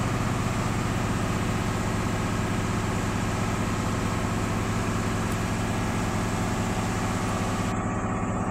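Bus diesel engine idling steadily while the air compressor builds the air brake system back up to full pressure, with a steady high hiss over the engine that cuts off suddenly near the end.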